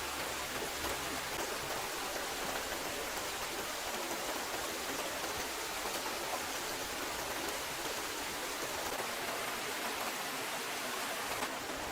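Steady rushing noise of water, even and unbroken, with no single drops or splashes standing out.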